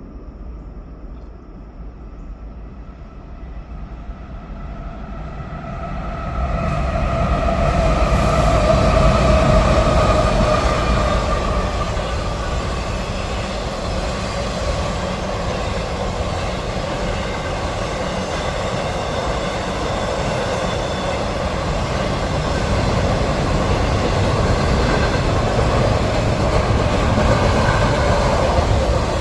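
A train approaching and going by: a rumble that builds over the first six seconds or so, then a steady run of the cars passing, with a tone that slowly falls in pitch as it comes past.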